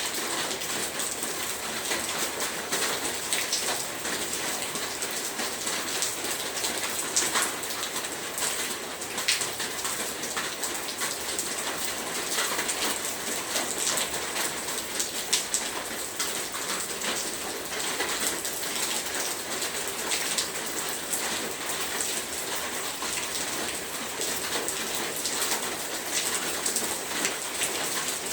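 Heavy rain falling steadily: a dense, even hiss scattered with many sharp ticks of drops hitting a surface.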